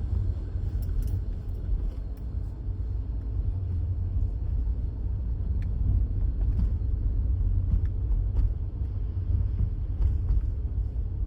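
Steady low rumble of a moving vehicle, road and engine noise, with a few faint ticks.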